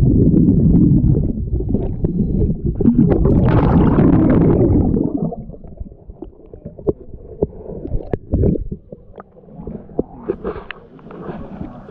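Water gurgling and sloshing around the microphone as the camera is taken to look at the hull: a loud low rumble for about five seconds, then quieter with scattered knocks and clicks.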